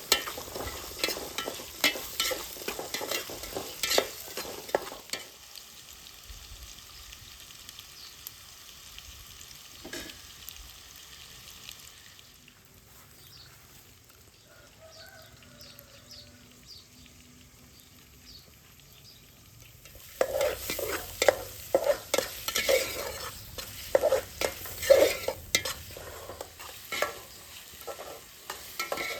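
Food being stirred in a frying pan: a utensil scraping and clattering against the pan over the sizzle of frying. It comes in two spells, with a quieter stretch of about fifteen seconds between them.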